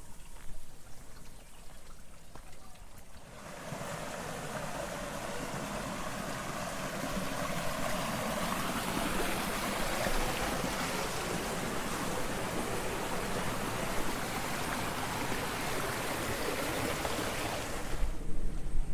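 Water rushing in an irrigation channel beside the rice terraces: a steady rush that starts suddenly a few seconds in and cuts off suddenly near the end.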